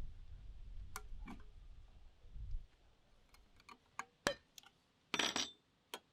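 Low wind rumble on the microphone that dies away after about two and a half seconds. It is followed by scattered light clicks and taps and a short scraping brush sound a little after five seconds in.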